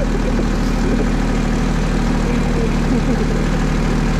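Engine of a small construction machine running steadily.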